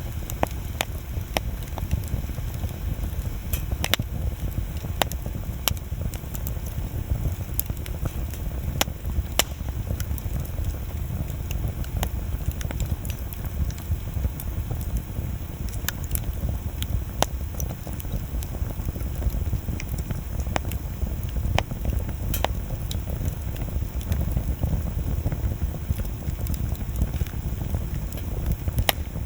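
Wood bonfire crackling, with sharp irregular pops scattered throughout over a steady low rumble.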